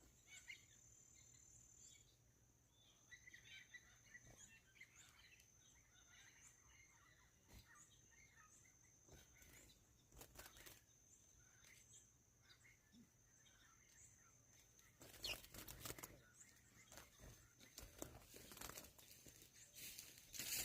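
Faint bird chirps over a thin, steady high-pitched whine. From about fifteen seconds in, close rustling and crinkling noise takes over.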